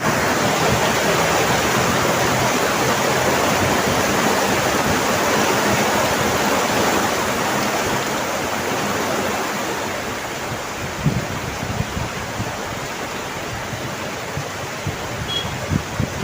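Steady heavy rain, a dense even hiss that eases slightly partway through, with a few low thumps in the second half.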